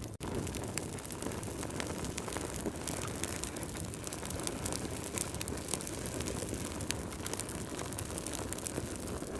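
Fireplace fire crackling: a steady low rush of flames with frequent small sharp pops. The sound cuts out for an instant just after the start.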